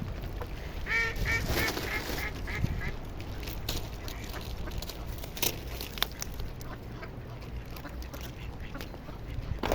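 Ducks calling: a quick run of about seven quacks about a second in, followed by scattered sharp clicks and taps.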